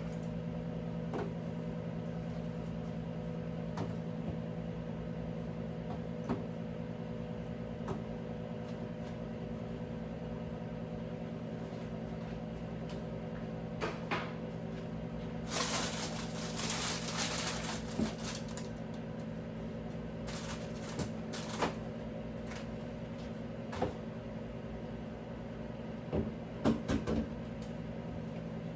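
Steady electrical hum under scattered clicks and knocks of things being handled. A couple of seconds of rustling, scrubbing noise come about halfway through, and a quick cluster of knocks near the end, sounds of clearing and cleaning out a refrigerator.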